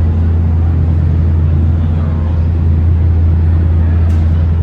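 Car engine idling: a loud, steady low drone that holds unchanged throughout.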